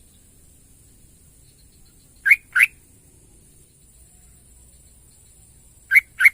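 Sooty-headed bulbul (trucukan) calling: two short, loud notes in quick succession, then a pause of over three seconds and another pair near the end.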